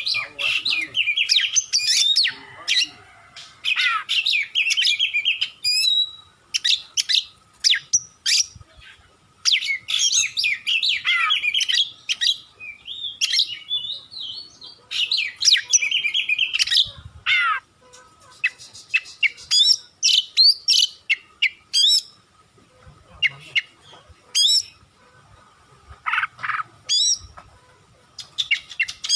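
Oriental magpie-robin (Kacer) singing in repeated bursts of varied whistled phrases and quick trills, with short pauses between bursts.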